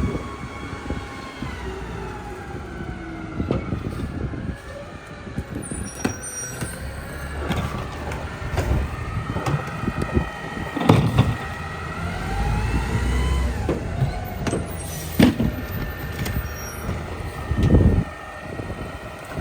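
Mack LEU rear-loader garbage truck working its New Way packer: the engine and hydraulics whine in tones that rise and fall, over a running diesel, with scattered clanks and thumps. The loudest knocks come about eleven seconds in and again near the end.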